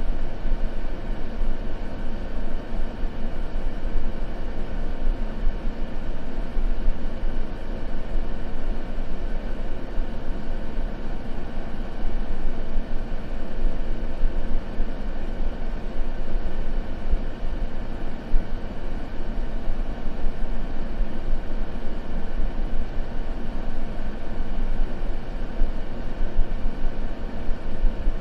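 Continuous white noise for sleep, deep and rumbling rather than hissy, running steadily without change.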